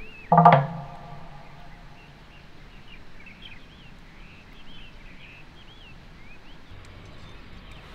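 A short, loud musical sting about half a second in, fading quickly. Then quiet outdoor ambience with small birds chirping again and again.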